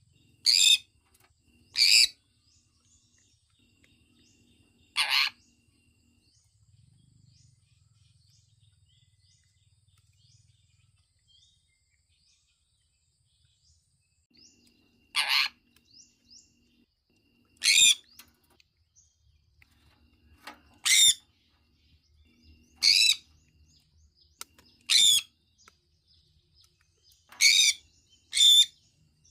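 Sun conure calling: about ten short, loud, harsh calls at irregular intervals, with a quiet gap of about eight seconds in the middle and faint small chirps between them.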